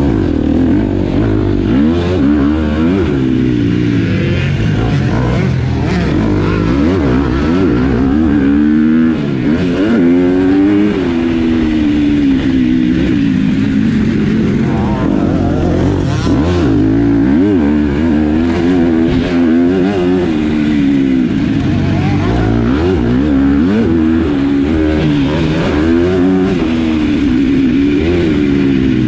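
Motocross bike engine revving up and down as it is ridden round a dirt track, its pitch rising and falling every second or two. A few brief knocks sound in between.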